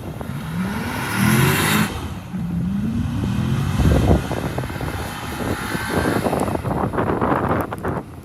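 Hummer H3 Alpha's V8 engine revving up and down several times while the SUV spins donuts in snow, over a rough rushing noise that grows denser near the end.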